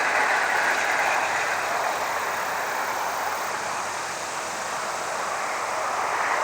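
Rattlesnakes rattling: a continuous dry buzz that almost sounds like crickets but louder, slightly weaker in the middle, over the steady rush of highway traffic.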